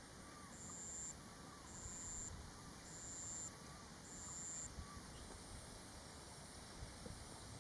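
Forest ambience: an insect calling in high-pitched pulses, about one a second, five times, stopping about five seconds in. Faint short wavering calls sound below it over a low rumble of wind on the microphone.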